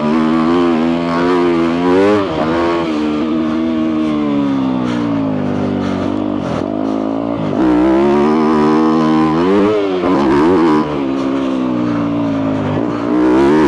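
2022 Yamaha YZ250F's four-stroke single-cylinder engine with a full FMF exhaust, ridden on the throttle: revs rise and fall, sag slowly for a few seconds, then climb sharply about halfway through with quick blips.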